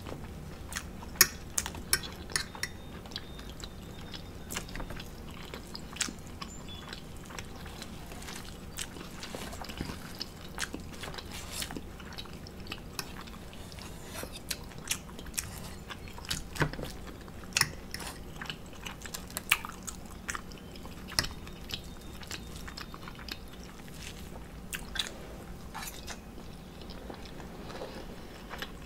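Chewing and biting of someone eating an omelet, with many sharp, scattered clicks of a metal fork against the plate, the loudest about a second in.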